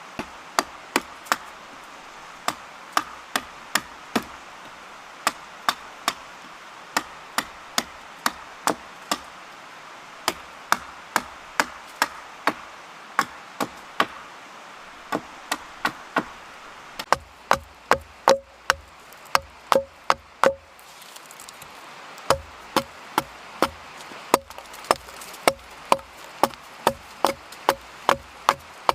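Wood being chopped: a steady run of sharp blows, about two a second, with a short break about two-thirds of the way through.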